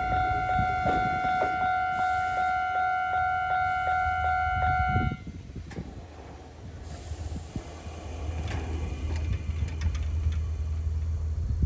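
Japanese railway level-crossing warning bell ringing, a steady electronic tone with strikes about twice a second, stopping abruptly about five seconds in. After a short lull, an electric train's low rumble builds.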